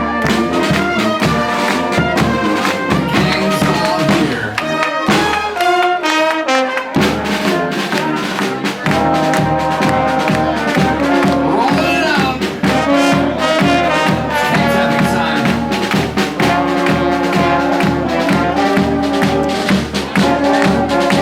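Live brass band playing an upbeat tune with trumpets and trombones over a steady beat. The low part drops out briefly about five seconds in, then comes back.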